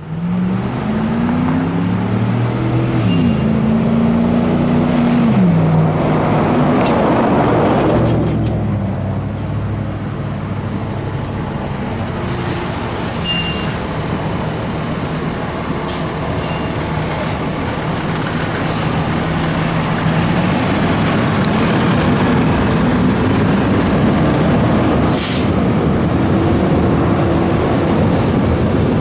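A 2021 Spartan Metro Star fire engine's diesel engine pulling away and changing pitch through gear changes, with a rising hiss of air that cuts off abruptly about eight seconds in. The engine then runs steadily and climbs in pitch again in the last third, with a few short clicks along the way.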